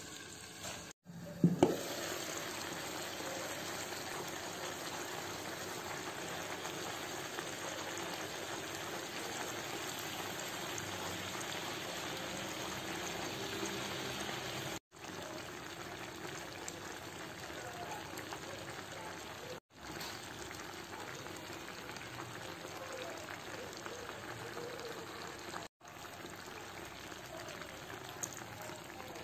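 Steady sizzling of beef and onions cooking in oil in a clay tajine, broken by a few abrupt cuts. A couple of sharp clacks come about a second and a half in.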